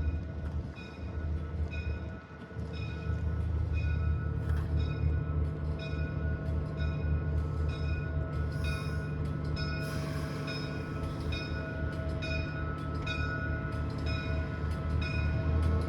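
Rail diesel car's diesel engines running, dipping briefly and then throttling up to a louder steady drone about three seconds in as it pulls away, with a bell ringing steadily, about three strokes every two seconds.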